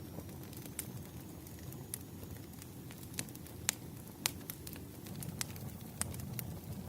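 Wood fire crackling in a fireplace: scattered sharp pops and snaps over a low steady rumble, the loudest two pops a little past halfway.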